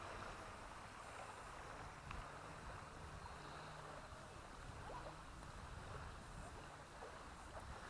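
Faint, steady wind noise with a faint low hum underneath.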